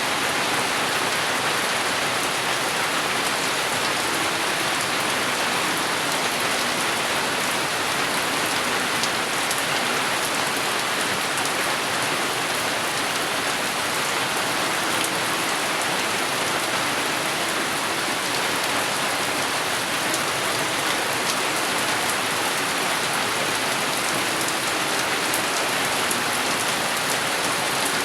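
Steady rain falling: an even hiss of rain on surfaces with scattered drop ticks and no thunder.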